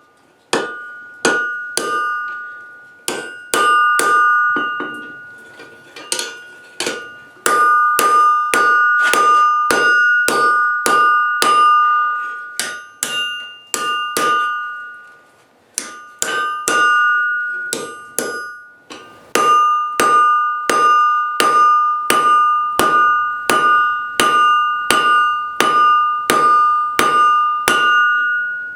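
Hand hammer striking hot steel on an anvil, in runs of about two blows a second with short pauses, the anvil ringing with a clear bell-like double tone after every blow.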